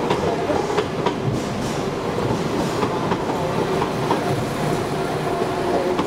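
London Midland Class 172 diesel multiple unit moving through the platform, its engines and wheels giving a steady rumble with a steady tone. The wheels click over rail joints now and then.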